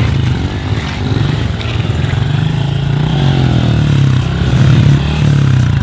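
Honda CRF110 pit bikes' small single-cylinder four-stroke engines running steadily, growing louder toward the end before dropping back.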